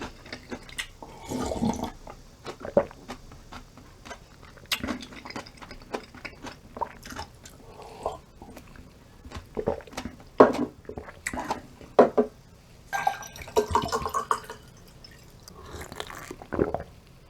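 Close-miked eating sounds: irregular chewing, sipping and swallowing noises, with short sharp clicks in between.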